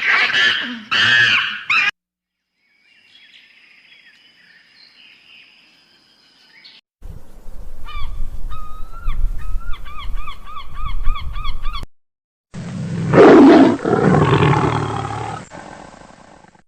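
A sequence of different animal calls from separate clips. Loud pitched calls come first, then a run of quick repeated calls at about four a second. Near the end there is a loud, deep call.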